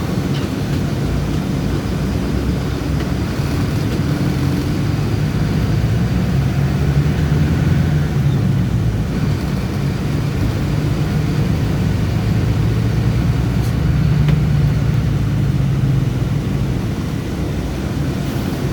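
City bus engine running, heard from inside the bus, a steady low drone that swells about seven seconds in and again about fourteen seconds in as it pulls harder.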